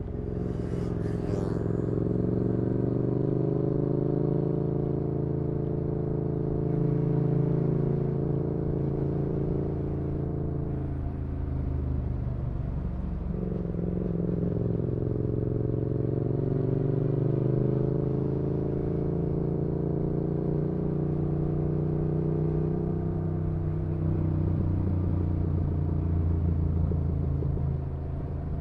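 Yamaha XSR700's parallel-twin engine through an IXRACE MK2 aftermarket exhaust, running steadily while cruising, its note easing down and picking up again with the throttle, with a dip about halfway through and another near the end. A brief sharp noise about a second in.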